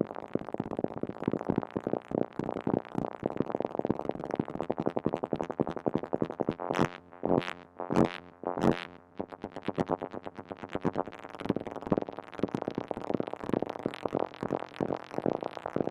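Moog Mother-32 analog synthesizer playing a fast, irregular stream of short pitched notes, its pitch and timing modulated by chaotic Lorenz-equation voltages from an analog computer. The notes come densely at first and more sparsely, with a few louder single notes, between about six and nine seconds in.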